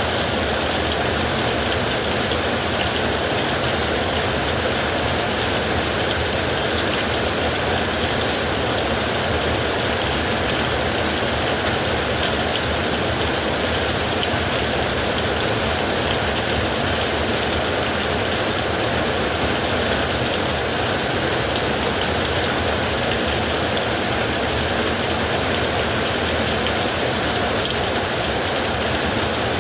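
Heavy rain pouring steadily on a roof: a dense, even hiss with no thunderclaps.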